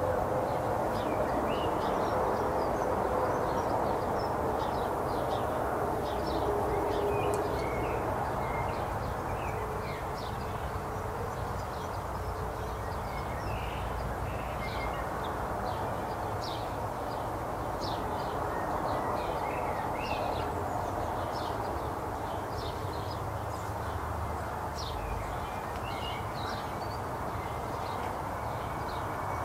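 Garden birds chirping and singing in the background, many short high chirps scattered throughout, over a steady low rumble.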